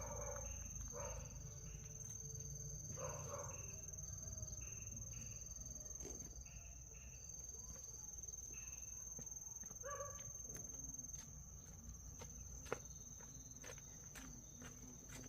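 Hens on an egg farm clucking in short calls every second or few, over a steady high thin whine and a low hum. From about halfway on, footsteps click by more and more often.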